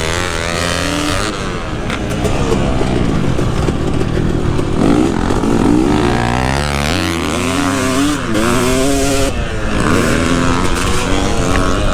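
KTM 250 SX single-cylinder two-stroke motocross engine, revving up and falling back again and again as the rider works the throttle around the track.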